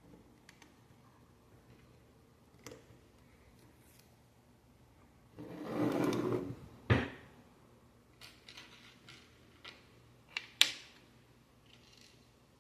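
Loose Lego pieces being handled: a rattling shuffle of plastic parts lasting about a second midway, then a few sharp plastic clicks, the loudest near the end.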